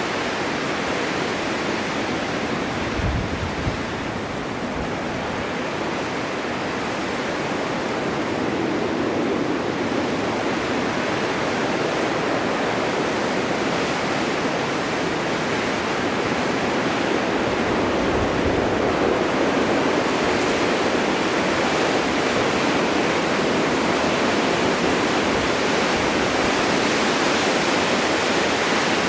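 Snowstorm wind blowing steadily, a dense even rush with brief low rumbles from gusts, growing slowly louder through the middle.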